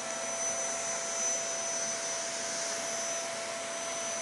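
Vacuum cleaner motor running steadily just after being switched on, its whine levelling off at the start and then holding an even pitch.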